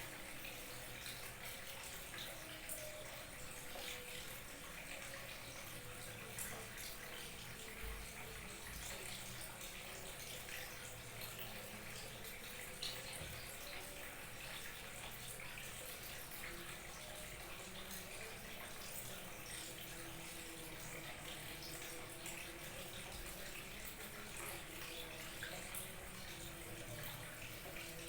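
Small waterfall trickling and babbling steadily, water splashing and gurgling without a break.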